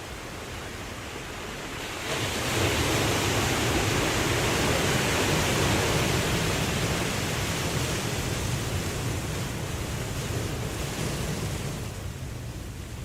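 Ocean waves washing on a shore: a broad rush of surf swells up about two seconds in, holds for several seconds, then dies back near the end.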